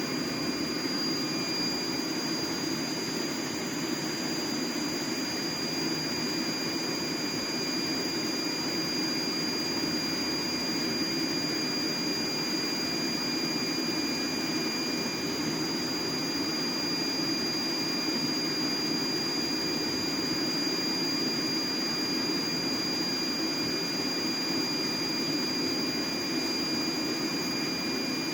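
Heat Star portable propane heater running on its high setting: a steady, even burner rush with a thin, constant high whine over it.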